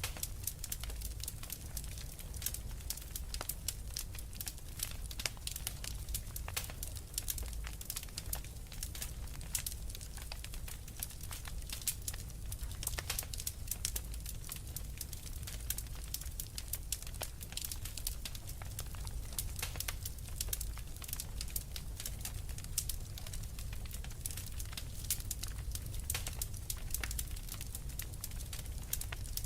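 Fire in a fireplace crackling steadily, with dense, irregular small pops and snaps over a low rumble.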